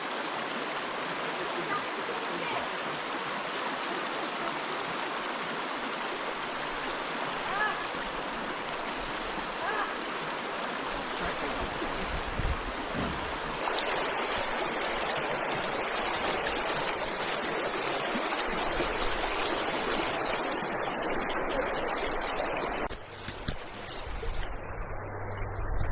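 River water rushing steadily over and around stepping stones, a continuous even wash. From about halfway through, gusts of wind rumble on the microphone, and the water sound drops away near the end.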